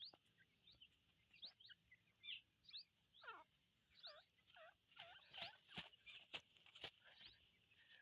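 Faint, rapid chirps and short squeaky calls from teetar (francolin) birds, with scattered soft clicks, getting busier about five seconds in.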